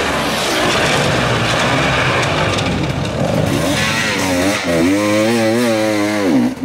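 Hard enduro dirt bike engines revving hard. From about five seconds in, one bike's engine is held at high revs with its pitch wavering up and down, then drops away at the end.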